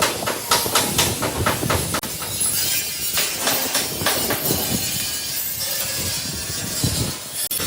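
Metal-workshop noise: a quick run of sharp metal knocks in the first two seconds, then a steady hiss with scattered clatter.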